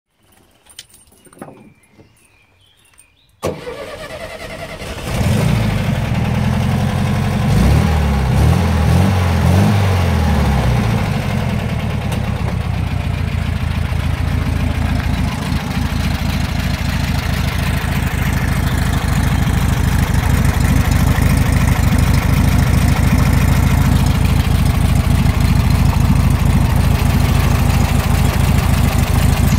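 A VW Beetle's air-cooled flat-four engine, breathing through a US-type exhaust, starts up about three and a half seconds in. Its pitch rises and falls for several seconds, then it settles into a steady idle with a slightly sporty exhaust note.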